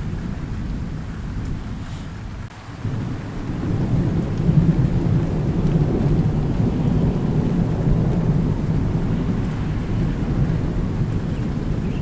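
Thunderstorm: steady rain with a long low rumble of thunder that swells about three seconds in and rolls on.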